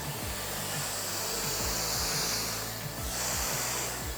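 Panasonic nanocare EH-NC80 hair dryer blowing steadily in its volume mode, its airflow hiss brightening for a moment about three seconds in as it is moved over the hair, with a background music beat underneath.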